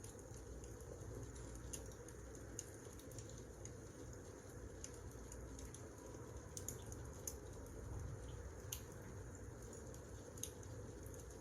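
Wood fire crackling: a steady low rush of burning with sharp, irregular pops and snaps scattered through it.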